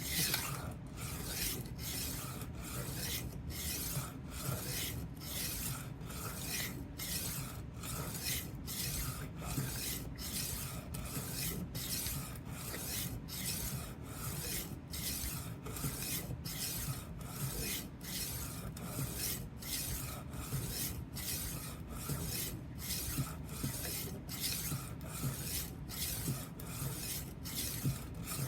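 A rolling knife sharpener's 240-grit disc rasping along the steel edge of a 12-inch Henckels chef knife. The strokes are evenly spaced, about four every three seconds, grinding the edge to raise a burr.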